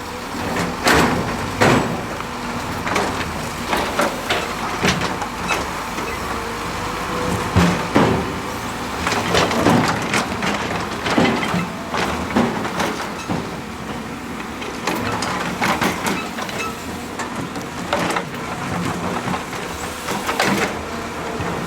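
Heavy construction machinery running, with repeated sharp clanks and knocks throughout.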